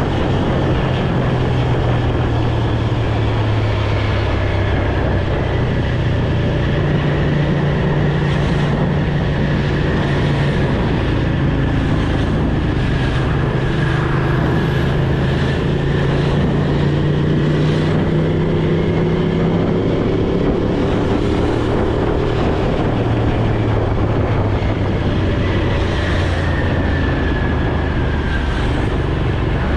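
Motor vehicle engine running continuously, with its low hum rising and falling slowly in pitch over road noise.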